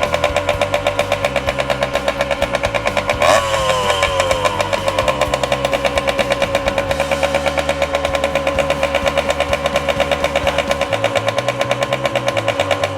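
1979 Kawasaki KM100's small two-stroke single-cylinder engine running at a fast, steady idle, its firing pulses even. About three seconds in there is a sharp pop, after which the pitch drops and settles. The idle is higher than it should be, and the engine keeps running because its shut-off switch doesn't work.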